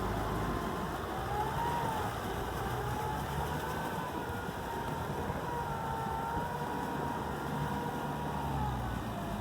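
Tractor engine running steadily under load, with a faint whine that slowly wavers in pitch.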